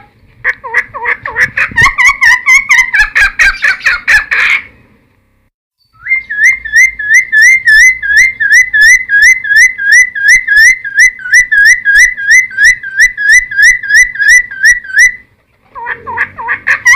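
Cucak timor singing: a quick run of whistled notes, then after a short pause a long, even series of repeated rising whistles, about four a second.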